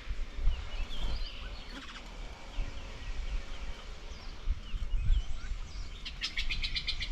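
Several small birds chirping with short calls, and one loud fast rattling call of about ten pulses a second near the end.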